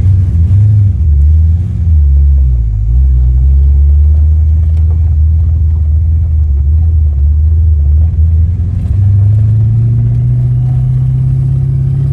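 Fox-body Ford Mustang with 4.10 rear gears, its engine and exhaust heard from inside the cabin while driving: a loud low drone. The note dips briefly a couple of times around two seconds in, holds steady, then steps up to a higher steady pitch about nine seconds in.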